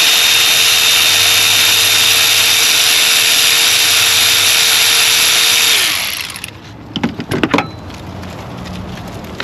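Cordless power tool running steadily with a steady whine while backing out spark plugs, then shutting off about six seconds in, its pitch falling as the motor winds down. A few short clicks and rattles follow.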